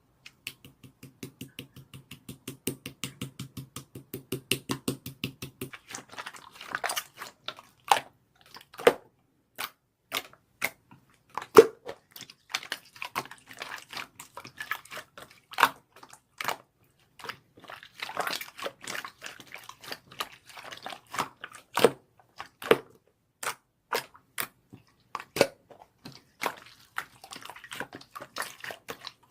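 Close-up clicks and crunchy crackling from something being handled: a fast, even run of clicks for about the first six seconds, then scattered sharp pops and crackles.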